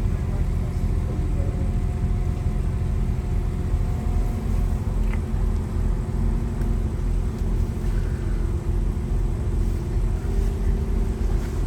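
Diesel passenger train running at speed, heard from inside the carriage: a steady low rumble with a faint engine hum.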